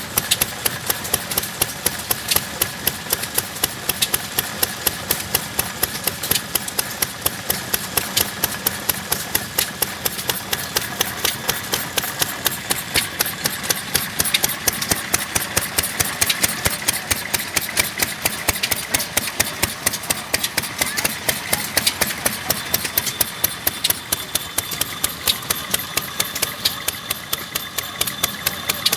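Vintage E.R. Barlow stationary engine running steadily, each stroke a sharp knock repeating evenly at about three a second.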